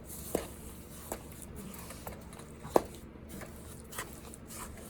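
A handful of short, separate knocks and clinks of a spoon against a cooking pot while blackberry jelly mixture is stirred, the loudest near the middle.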